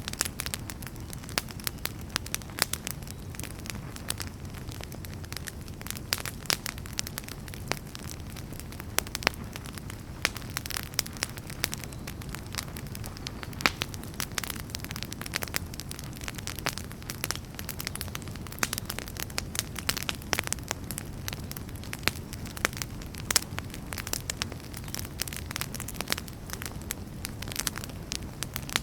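Wood fire burning in a fireplace: a steady low flame rush with irregular sharp crackles and pops of burning logs throughout.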